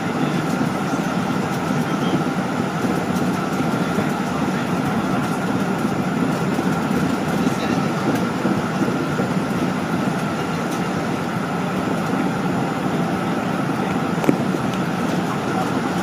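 Steady cabin noise of an airliner in flight, the engines and rushing air making an even low hum with a faint whine on top. A single click about fourteen seconds in.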